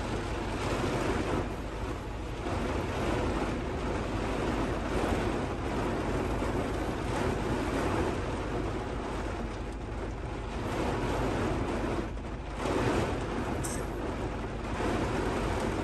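Heavy rain pouring on a truck with gusting wind, heard from inside the cab as a steady rushing wash that swells and eases a little.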